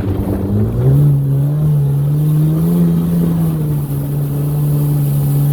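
1995 Sea-Doo XP's Rotax 717 two-stroke twin running under way, its note rising about a second in as the throttle opens and then holding steady at cruising speed. The engine is being broken in on premix.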